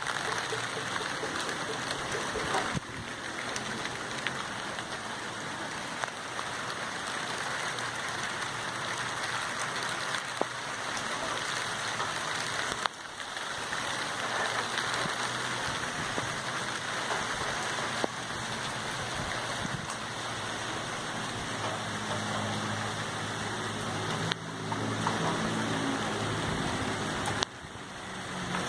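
Steady rain falling, an even hiss of drops, with a few abrupt changes in level. A low hum joins in during the last several seconds.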